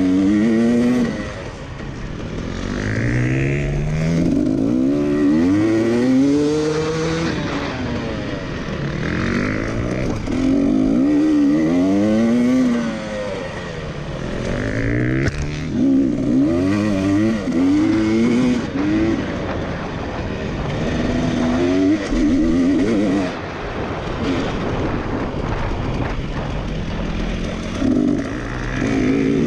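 Racing engines running hard on a track, their pitch climbing and dropping every few seconds as they rev up and back off. Two engines overlap, one following the other.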